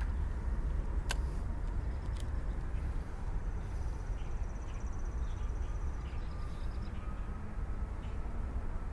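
Outdoor background with a steady low rumble, two sharp clicks, one about a second in and one about two seconds in, and a faint high trill midway.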